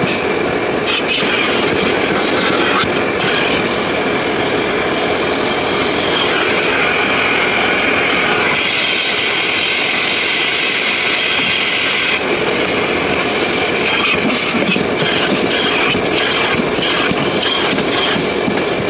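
Car wash vacuum running with a loud, steady suction hiss. For a few seconds in the middle the hiss turns higher and brighter, then settles back.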